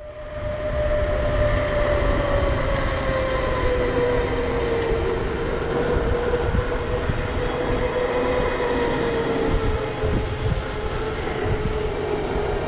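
Wind buffeting the microphone of a camera on a bicycle coasting downhill at speed, with a steady tyre hum that slowly drops in pitch.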